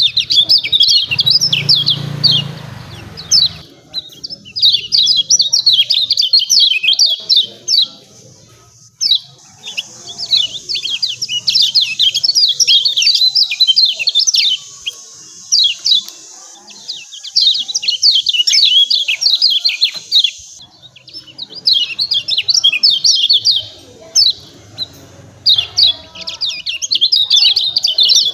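Kecial kuning, a white-eye, giving its rapid, chattering 'ciak ciak' call: fast runs of sharp, high chirps lasting several seconds each, broken by short pauses.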